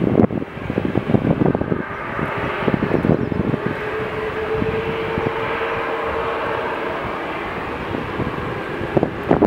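Jet airliner engines running on or near the runway, a steady roar with a whine held through the middle. Wind buffets the microphone in the first few seconds and again near the end.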